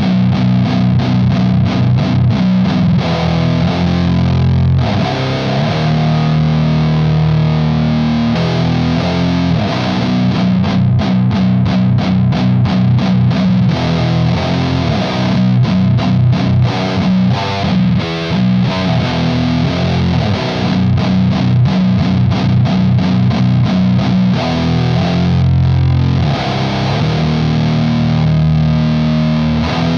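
Heavily distorted electric guitar with passive pickups, tuned to B standard, playing doom riffs through an FGE The Mountain overdrive/distortion/fuzz pedal in its stacked setting into a Sunn Beta Lead. Ringing low chords alternate with stretches of fast, tightly picked chugging.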